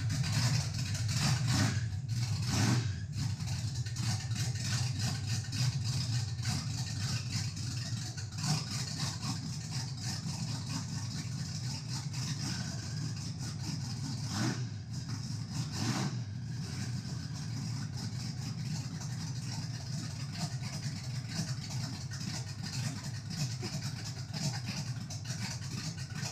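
A car running down the road: a steady low engine drone with road and wind hiss.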